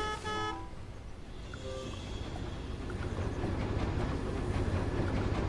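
Train rolling along the rails, a low rumble with clicking wheels that grows louder from about three seconds in. Two short pitched tones sound at the very start.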